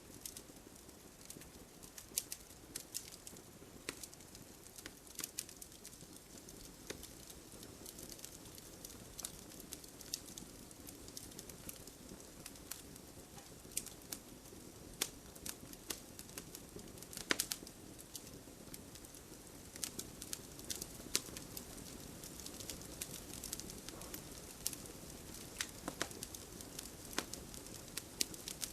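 Wood fire in a fireplace burning with a steady soft hiss and irregular crackles and pops, one louder pop about 17 seconds in.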